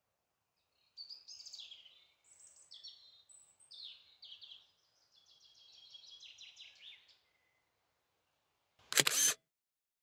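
A songbird singing a series of varied chirps and trills for about six seconds, then a single brief loud thump near the end.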